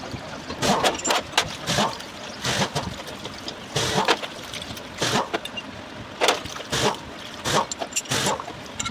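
Liquid splashing and sloshing in about a dozen short, irregular bursts, as engine cylinder bores are washed out by hand.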